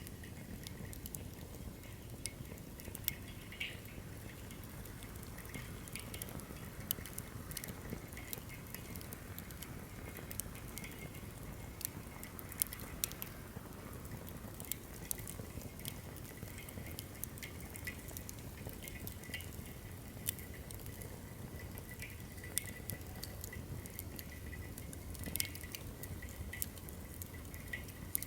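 Firewood burning in a fire-pit stand: irregular crackles and sharp pops over a steady low noise.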